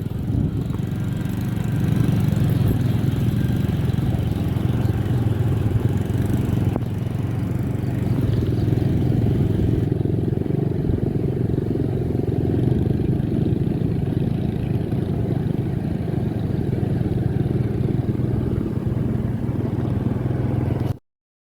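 A motor vehicle running steadily on the road: a constant low engine drone with road noise. It cuts off suddenly near the end.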